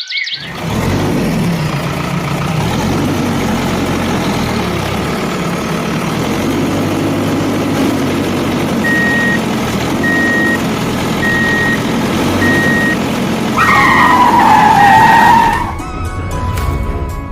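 Cartoon vehicle sound effect: an engine running steadily and roughly. In the second half, reversing beeps sound about once a second, and near the end a loud wavering squeal lasts about two seconds before the engine sound cuts off.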